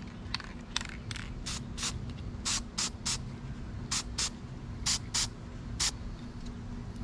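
Aerosol spray paint can being sprayed onto a small lure in about a dozen short hissing bursts, unevenly spaced, with a faint steady hum underneath.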